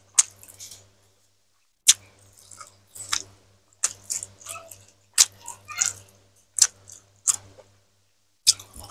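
Close-miked wet mouth sounds of someone eating boiled cassava leaves by hand: about a dozen sharp lip smacks and chewing clicks, spaced irregularly.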